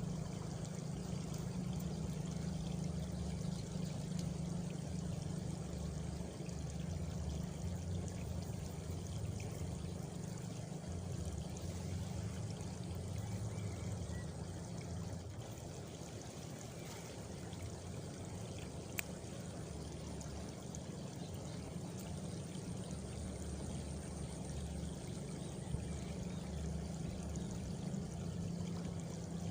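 Water flowing and splashing steadily, like a small stream or a trickle into a channel.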